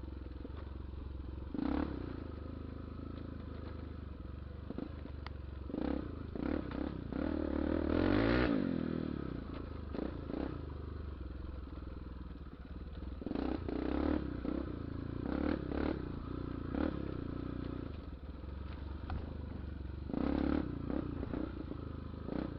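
Honda XR250 Tornado's single-cylinder four-stroke engine running as the motorcycle is ridden over rough ground. The engine swells in pitch and loudness about eight seconds in, and there are occasional knocks and rattles.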